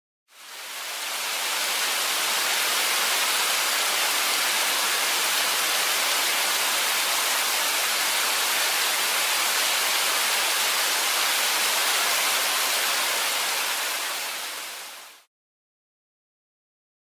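A steady rushing hiss like static or white noise, fading in, holding even for about fourteen seconds, then fading out.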